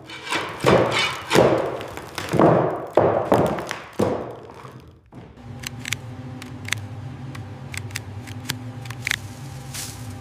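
A run of heavy knocks over the first four seconds or so, each with a short ring. After that comes a steady low hum with scattered small clicks.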